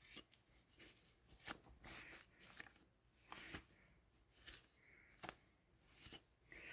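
Faint rubbing and scattered light clicks of a rag wiping and handling a plastic hose clamp as it is cleaned of oxidation.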